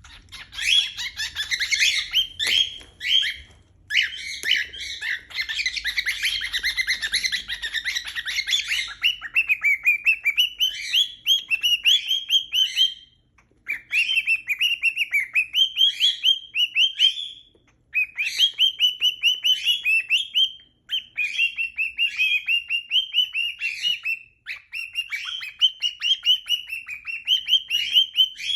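Pet cockatiels calling: dense, harsh overlapping chatter for the first nine seconds or so, then long runs of quick rising chirps, several seconds at a time, broken by short pauses.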